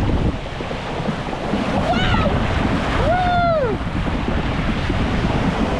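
Steady rushing noise, heavy in the low end, with two short rising-and-falling voice calls about two and three seconds in.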